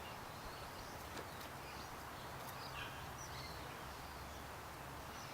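Quiet outdoor background hum with a few faint bird chirps.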